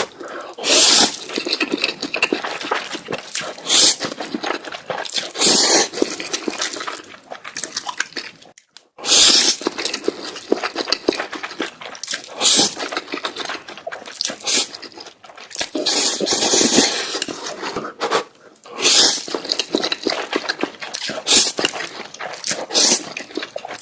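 A person slurping and chewing noodles close to the microphone: a series of wet slurps a few seconds apart, with smacking and clicking mouth sounds between them.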